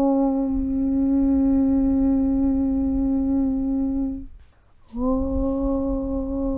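A voice chanting a long 'Aum' (Om) held on one steady pitch over a low rumble. It breaks off a little after four seconds in, and after a short pause a new 'Aum' begins, sliding briefly up into the same pitch.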